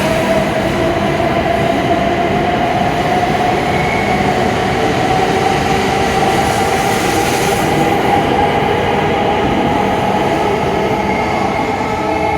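A Hokuriku Shinkansen train running at Kanazawa Station: a loud, steady rush of running noise with a motor whine that rises slightly in pitch over the first several seconds, then holds.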